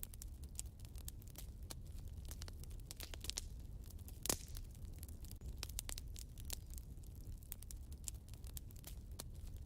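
Wood fire crackling in a fireplace: irregular sharp crackles and small pops over a low rumble, with one louder pop about four seconds in.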